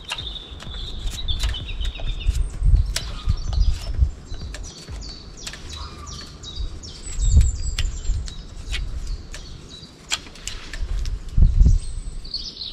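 Small birds chirping and calling throughout, with scattered sharp clicks and irregular bursts of low rumble.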